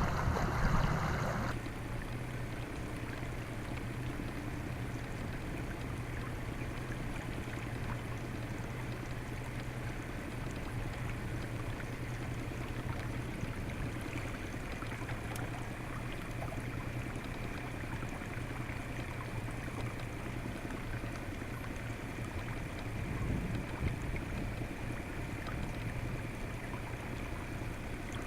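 Pontoon boat's motor running steadily at trolling speed, a low steady hum, with water sloshing against the pontoons. Something louder is heard for about the first second and a half.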